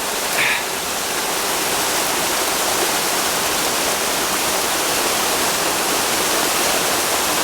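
Rain-fed seasonal waterfall pouring off high volcanic cliffs: a steady, loud rush of falling water.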